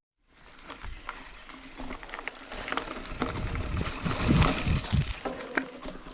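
Mountain bike riding over a dirt trail: tyre noise with many rattling clicks, building up after a moment of silence and growing louder near the middle.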